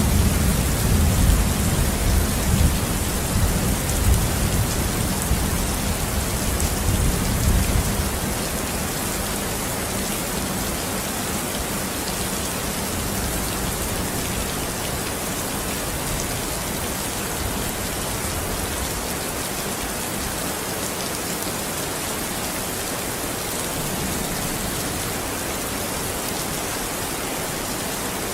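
Steady rain falling, with a low rolling rumble of thunder through the first eight seconds or so that then dies away, leaving the rain alone.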